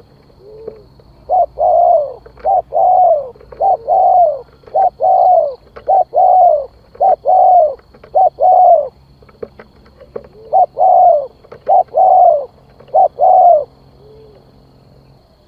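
Spotted dove cooing: a run of paired coos, each a short note followed by a longer arched one, repeated about nine times with a brief break about two-thirds of the way through. It is the male's territorial call, used here as a lure.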